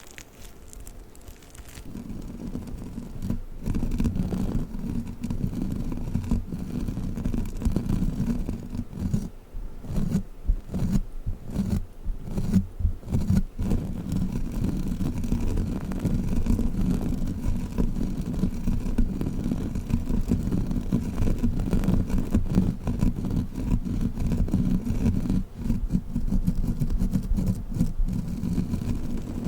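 Sticky crawler toy worked against the microphone: a dense run of quick, muffled, low sticky patting and rubbing that starts about two seconds in, with a few brief breaks near the middle.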